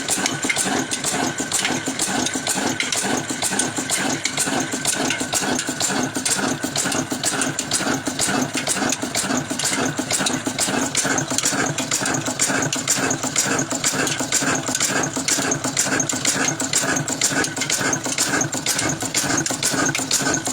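Old stationary water-pump engine running steadily with a fast, even beat.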